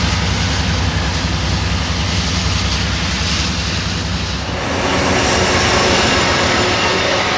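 Train passing close by: a loud, heavy low rumble of the locomotive's engine. About halfway through it gives way to the higher rushing of the rail cars rolling past, with faint high wheel whine.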